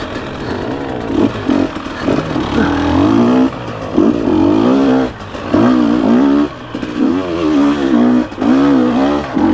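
Dirt bike engine revving up and dropping back in quick repeated surges as the throttle is worked over rough trail, about one surge a second.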